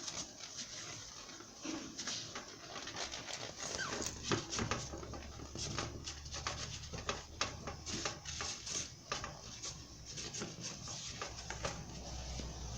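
Paper towel being rubbed and wiped over fireplace ceramic glass: a run of irregular rustling, crinkling and rubbing strokes, with a brief rising squeak about four seconds in.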